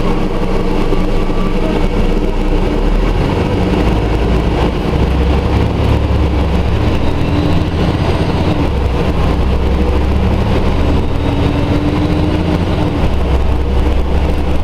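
Scania Omnidekka double-decker bus's diesel engine running under way: a steady deep drone that grows stronger about three seconds in, with a faint whine over it that rises and falls.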